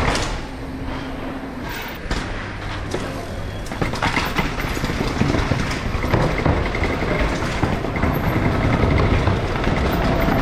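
Commuter train pulling into a station: a rumbling train noise that grows louder from about four seconds in, with a faint steady high tone added partway through.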